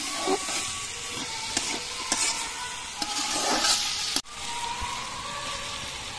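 Diced potatoes, carrots and green chillies sizzling in hot oil in a kadai, stirred with a metal spatula that scrapes against the pan in repeated strokes. The sound drops out for an instant about four seconds in.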